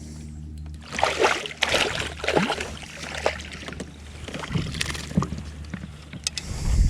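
Handling noises aboard a fishing kayak: irregular clattering and splashy rustles over a steady low hum, with a heavy low thump near the end.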